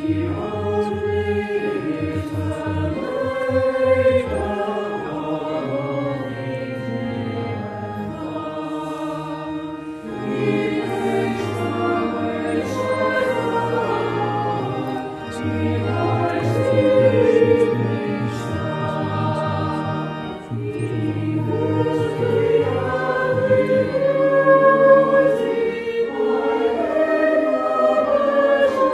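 A choir singing in long sustained phrases, with short pauses between them.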